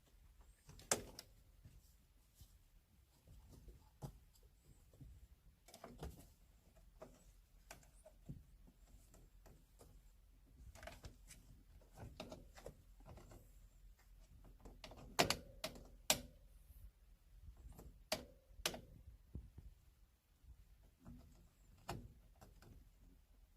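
Kittens playing: scattered light knocks, taps and clicks at uneven intervals, with a few sharper knocks about a second in and around the middle.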